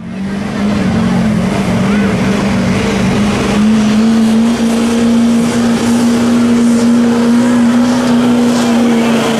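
Pickup truck engine running at high revs under full throttle during a truck pull. Its pitch steps up a little about three and a half seconds in, then holds steady.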